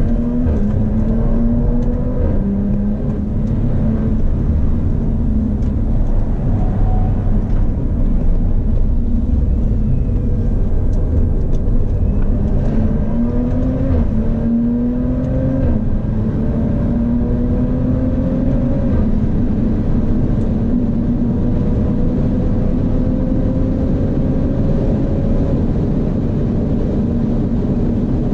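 Audi B9 RS4's twin-turbo V6 heard from inside the cabin, accelerating through the gears: the engine note climbs and drops at several upshifts in the first half, then rises slowly through one long pull in a high gear. Road and wind rumble runs underneath throughout.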